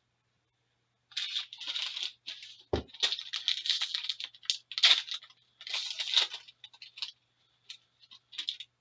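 A hockey card pack's wrapper being torn open and handled, crinkling and rustling in irregular bursts, with a single low thump about three seconds in.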